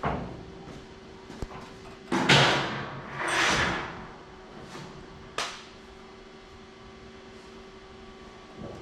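Tie-down straps being handled around a truck on a chassis dyno: a few sharp clanks, and two short rushes of noise in the middle that are the loudest sounds, over a steady hum.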